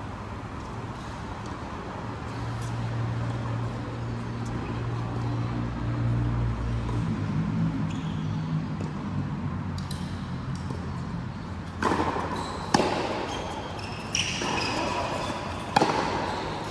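A ball being struck and bouncing in a racket-sport rally: a few sharp knocks in the last five seconds. Before them, a low steady hum.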